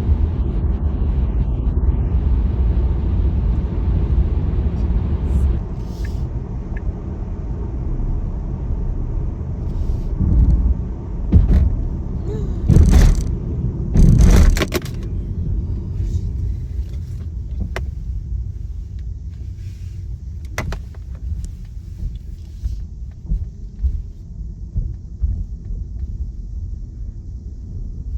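Tesla car's tyre and road rumble while driving, dropping a step about five seconds in. Several loud bursts of rushing noise come between about ten and fifteen seconds in, and then the rumble settles quieter.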